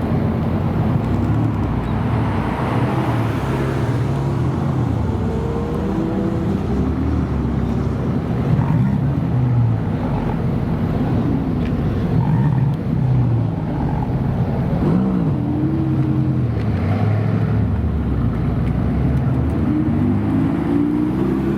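Several supercar engines, Lamborghinis among them, revving and accelerating one after another, their pitch rising and falling repeatedly and overlapping.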